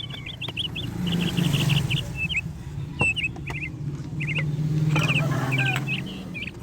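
Rapid runs of short, high chirps, like small birds, over a low steady hum that grows louder in the middle and fades near the end, with a few sharp clicks.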